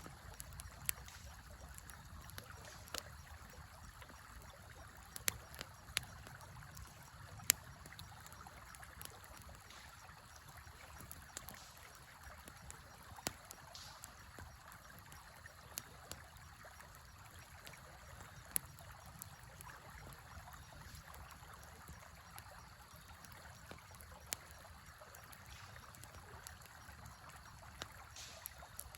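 Campfire crackling, with sharp pops at irregular intervals, over the steady rush of a river.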